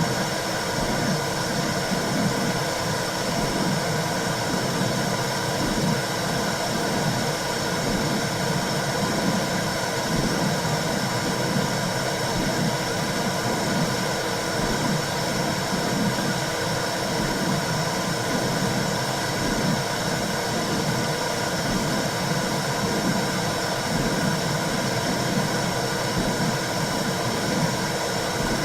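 Womb-sound white noise for soothing a newborn: a steady whooshing hiss over a low rumble that swells and fades unevenly, like muffled pulsing inside the body.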